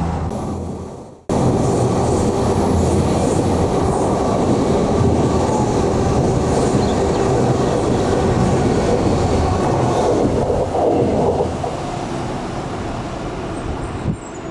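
Train passing: a steady rumble and rattle of wheels on rail that starts abruptly about a second in and eases off slightly near the end.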